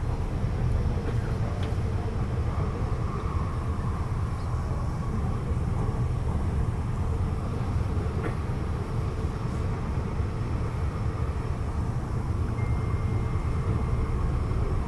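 Hyundai Rotem R-Train electric multiple unit running steadily between stations, heard inside the passenger car: a continuous low rumble of wheels and motors on the track.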